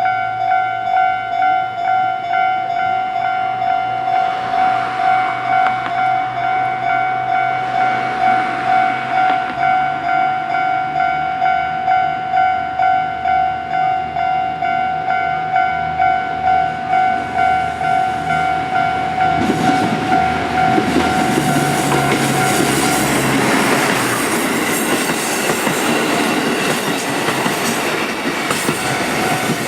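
Level crossing warning bell ringing steadily at about two strokes a second while a three-car KiHa 85 series diesel railcar train approaches, its engine hum growing. About twenty seconds in the train passes the crossing, its wheels on the rails and its diesel engines loud enough to drown the bell, which is heard again near the end.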